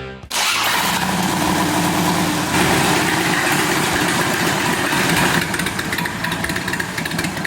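2006 Harley-Davidson Road Glide's V-twin engine running at idle, coming in abruptly and running steadily, a little louder a few seconds in. The engine keeps running at idle rather than stalling, a sign that its dying-at-idle problem has been fixed.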